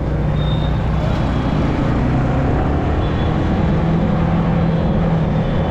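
Motorcycle engine running steadily while riding, with a continuous hum under road and traffic noise.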